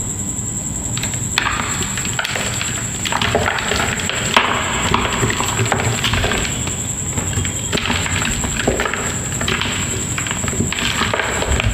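Homemade gym chalk being crushed and crumbled: a string of dry crunching bursts, about ten of them at an uneven pace.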